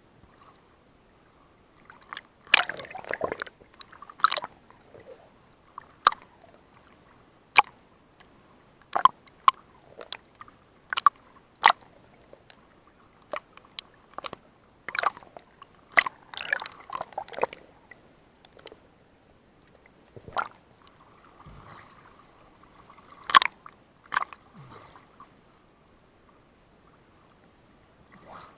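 Irregular wet splashes and sloshes of water, with many sharp clicks spread unevenly between them.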